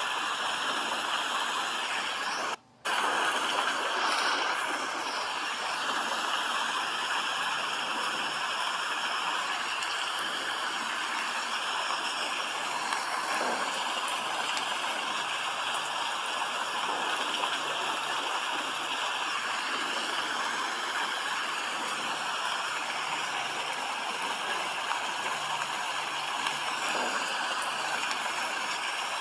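Steady rain, an even hiss that cuts out for a split second a little under three seconds in.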